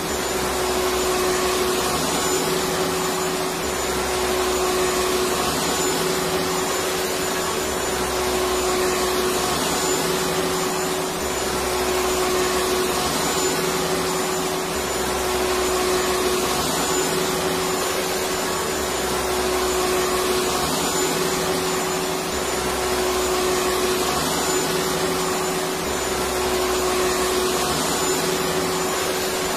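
Vacuum cleaner motor running steadily, a continuous even whoosh with a steady humming tone.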